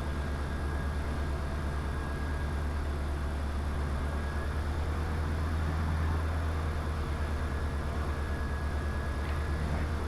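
Diamond DA20 light aircraft's piston engine and propeller droning steadily in flight, heard from inside the cockpit, with a thin steady whine above the drone. It swells slightly about six seconds in.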